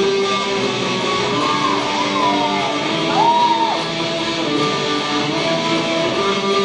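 Live band playing an instrumental passage led by electric guitar over bass, with several bent guitar notes in the middle.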